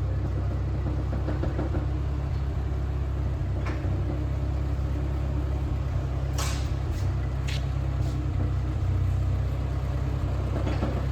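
The P-51 Mustang's Merlin V-12 engine running steadily at low power, with a few short clicks about midway.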